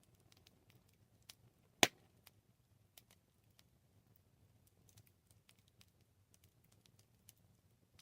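Campfire crackling: a sparse run of small snaps and ticks from burning wood, with one sharp, much louder pop about two seconds in.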